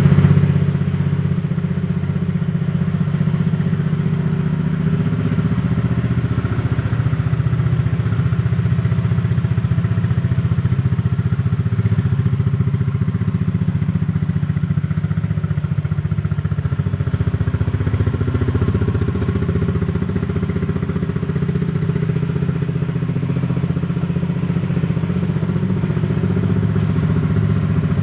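Honda PCX125 (JF28) scooter's single-cylinder four-stroke engine idling steadily through an aftermarket custom muffler.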